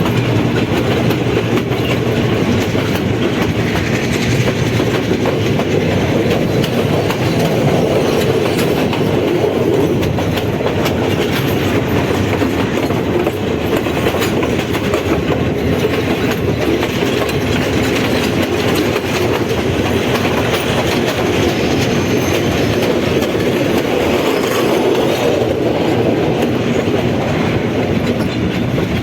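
Passenger train running along the track: a steady loud rumble with the wheels clattering over the rails.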